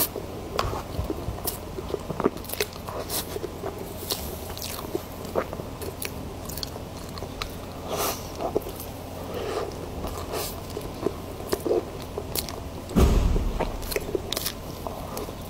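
Close-miked eating of soft cream-filled sponge cake: moist chewing with many small mouth clicks, and a dull thump a couple of seconds before the end.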